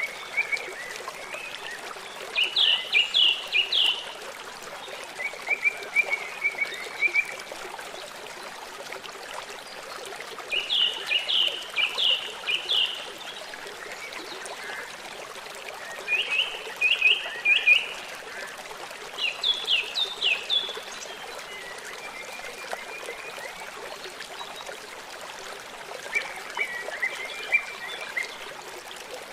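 Songbirds singing short phrases of rapid, high notes, about six phrases a few seconds apart, over the steady rush of a stream.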